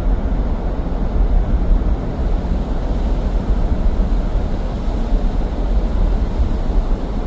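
Car driving on a snowy road, heard from inside the cabin: a steady low rumble of tyres and engine.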